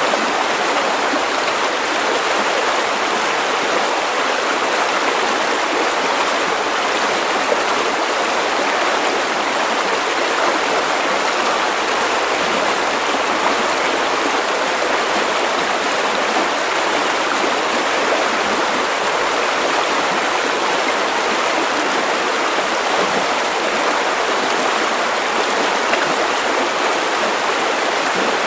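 River water running over stones: a steady, unbroken rushing.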